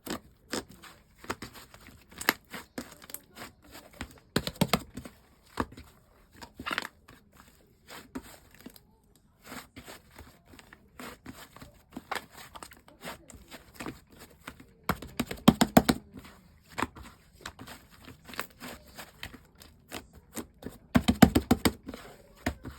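Slime being squished and pressed by hand, giving a string of sharp little clicks and pops, with faster, louder runs of popping about a quarter of the way in, around two-thirds of the way, and near the end.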